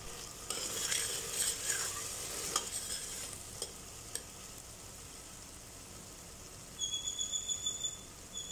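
Chopped onion and tomato sizzling in oil in a pressure cooker, with a spoon stirring and scraping against the metal for the first three seconds or so, then a soft steady sizzle. Near the end a high tone pulses rapidly for about a second.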